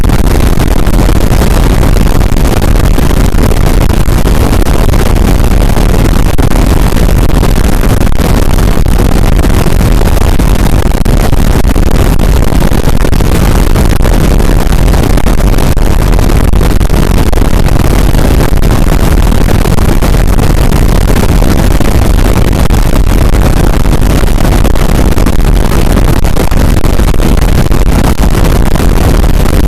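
Harsh noise wall: a dense, heavily distorted, unchanging roar of noise at full volume, heaviest in the bass.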